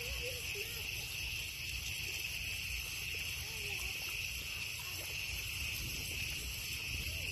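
Steady, high-pitched chorus of insects over a low rumble, with a few faint short squeaks near the start.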